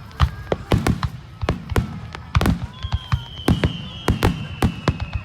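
Aerial fireworks going off in quick succession, sharp bangs a few times a second with a rolling echo after them. From about three seconds in, a high thin whistle, slowly falling, runs alongside.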